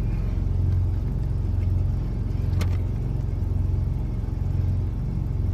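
Idling truck engine: a steady low rumble that swells and fades in a slow, regular pulse. A single sharp click about two and a half seconds in.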